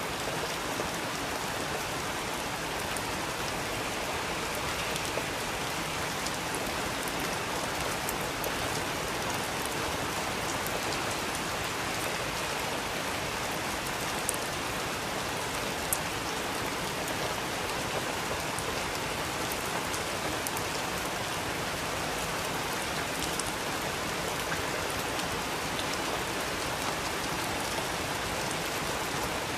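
Steady rain falling, with scattered individual drops ticking on a surface and a couple of sharper drips about halfway through.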